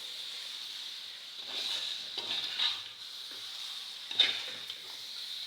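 Chicken pieces sizzling in a pan of onion-and-spice masala, with a steady frying hiss. A spoon scrapes and knocks against the pan a few times, loudest about four seconds in.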